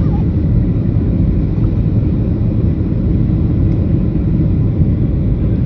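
Steady low rumble of a Boeing 737-700 in flight, its CFM56 engines and the airflow over the fuselage heard inside the passenger cabin.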